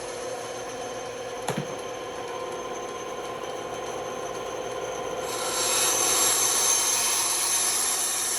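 Band saw running with a steady hum while its blade cuts through wood. There is one sharp click about a second and a half in, and the cutting grows louder and hissier about five seconds in.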